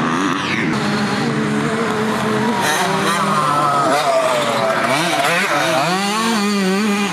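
Several motocross bikes racing together, their engines revving up and down in pitch as the riders throttle and shift, with a rising and falling run of revs near the end.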